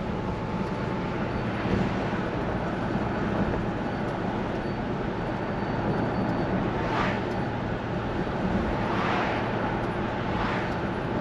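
Steady engine and road noise of a 1968 Plymouth Fury with a 383 V8 cruising, heard from inside the cabin, with three brief swells of louder noise in the second half.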